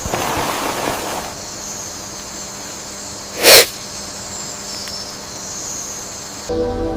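Rainforest ambience with a steady high buzz, broken about three and a half seconds in by one short, loud, breathy burst, like an animal's snort.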